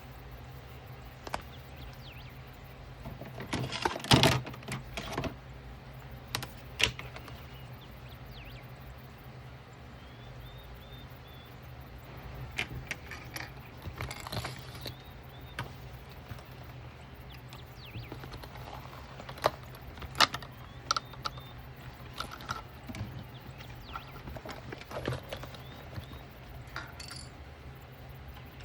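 Hands handling fabric and small sewing tools and clips: scattered clicks, taps and rustles, with the loudest clatter about four seconds in, over a steady low hum.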